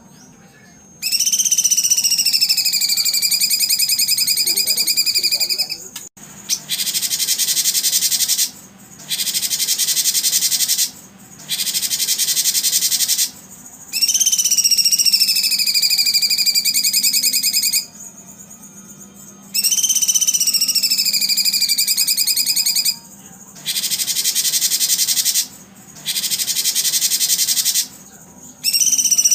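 Songbird song in repeated phrases two to five seconds long with short gaps: long whistled phrases of two parallel tones that slide down and level off, alternating with dense, buzzy rapid trills.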